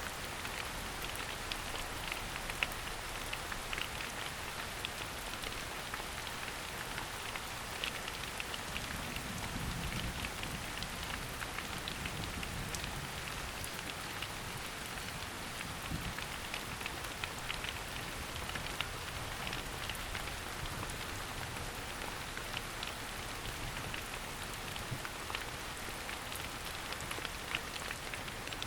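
Steady rain falling in a forest, with many single drops ticking throughout.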